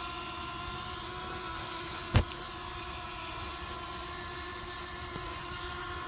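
Hubsan Zino Mini Pro drone hovering, its motors and propellers giving a steady whine of several held pitches. A single sharp click sounds about two seconds in.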